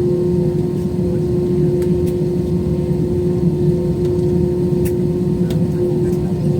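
Airliner engines running steadily: an even low drone with a constant hum, with no rise or fall in pitch and a few faint clicks.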